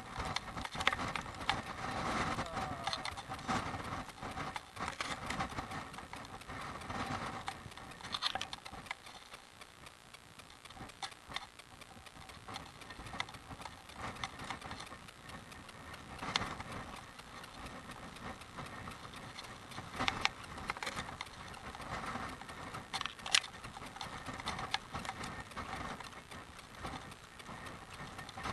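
Bicycle ride on a rough road: a continual clattering and clicking from the bike, with a few sharper knocks scattered through.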